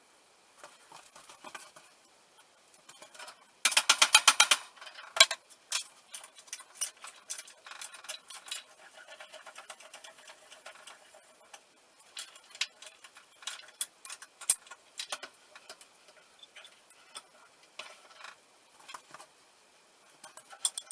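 Metal clicks and clinks of hand tools and steel parts as a bench drill press is assembled, with a loud rapid run of clicks about four seconds in and scattered single clicks after.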